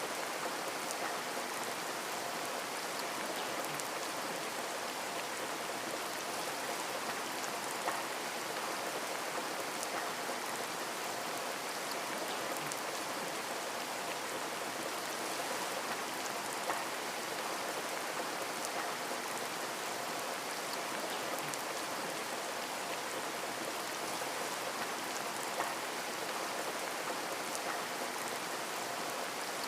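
Steady rain falling on a window, a dense even hiss with scattered individual drops ticking and an occasional louder drop.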